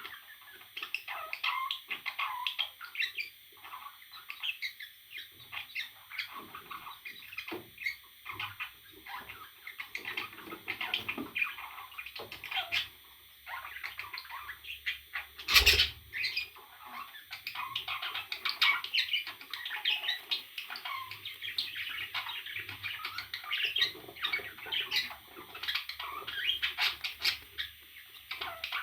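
Parrot chirping and squawking, a steady stream of short calls. A single sharp knock a little past halfway is the loudest sound.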